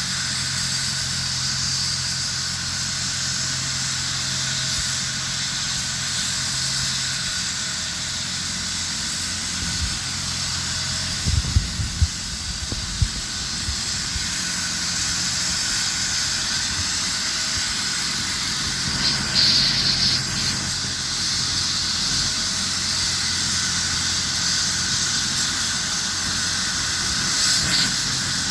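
Medical helicopter's turbine engines running steadily with a high whine and hiss, and a few short knocks about halfway through.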